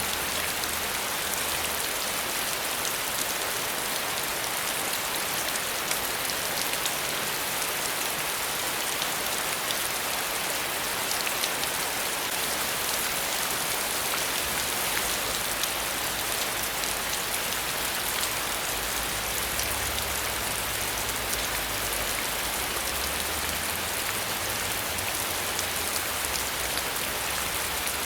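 Steady rain falling, with many fine droplet patters over an even hiss.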